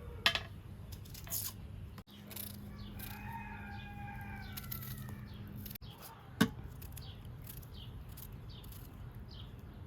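A rooster crowing once, a long call of about three seconds. Three sharp knocks are heard around it, quick high chirps come in the second half, and a low steady rumble runs underneath.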